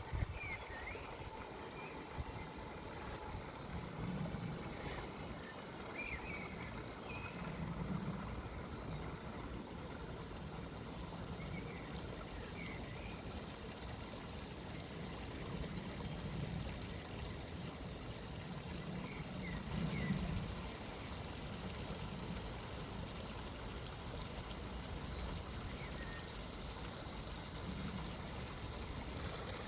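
A stream running steadily, with a handful of short, faint bird chirps every few seconds.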